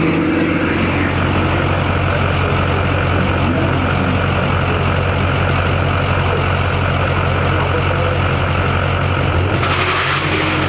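Diesel truck engine idling steadily, with a short burst of hiss near the end.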